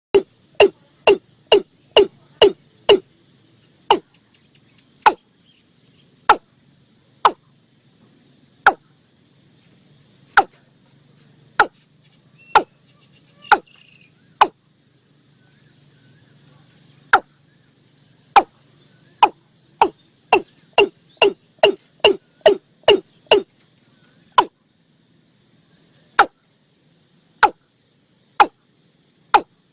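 Male watercock calling: a long series of short, hollow notes, in quick runs of about two a second that slow to about one a second and then speed up again.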